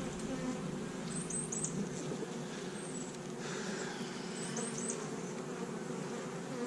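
Honey bees buzzing steadily around a colony opened for a frame-by-frame inspection, a continuous even hum. Two brief faint high chirps come through about a second and a half in and again near the five-second mark.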